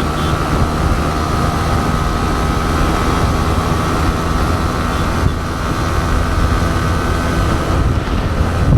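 Motorcycle engine running at a steady speed while riding, with wind noise rushing over the camera microphone.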